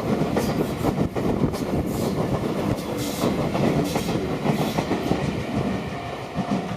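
Train running along the track: a steady rumble of wheels on rail with irregular clicks and clacks, easing off a little near the end.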